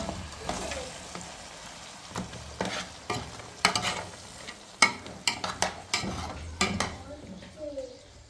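Irregular scrapes and clinks, several a second at times and uneven, over a steady faint hiss.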